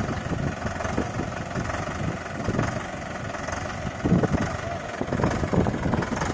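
Mahindra Yuvo tractor's diesel engine running with a rapid, even chugging, getting louder about four seconds in.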